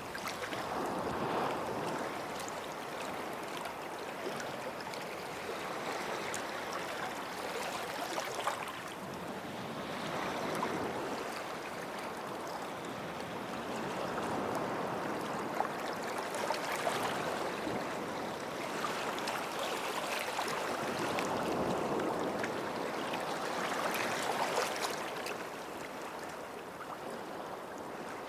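Small sea waves washing in at the shoreline, a steady hiss that swells and eases every few seconds.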